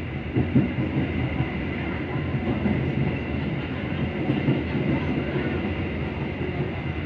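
Passenger train running along the track, heard from inside the carriage: a steady rumble with a faint constant high whine.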